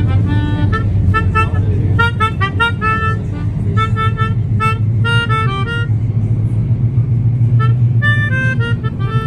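A melody of short, quick, clear notes played on a small instrument, pausing for a couple of seconds midway, over the loud steady low rumble of a moving subway train.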